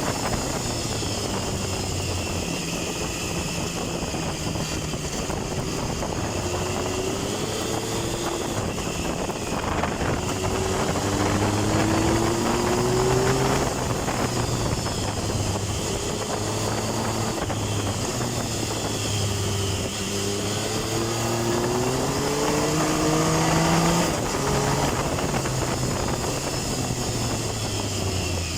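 Triumph Tiger 1050's inline three-cylinder engine under way, its note rising twice as the bike accelerates out of bends and dropping back between, over steady wind and road rush.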